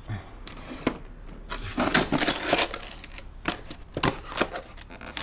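Hard plastic items and packaging being handled while unboxing a battery mower kit: a run of sharp clicks and knocks with a short rustle of packaging about two seconds in.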